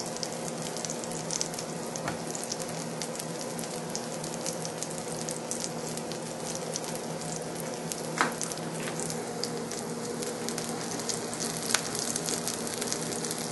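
Llapingachos (potato-and-cheese patties) frying in a little oil in a pan: a steady, dense crackling sizzle, with a couple of brief louder pops and a low steady hum underneath.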